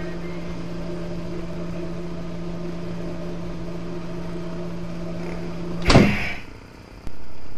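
Motorcycle engine running steadily at an even road speed, heard from the rider's own bike. About six seconds in, a sudden loud burst of noise cuts across it and the engine sound drops away.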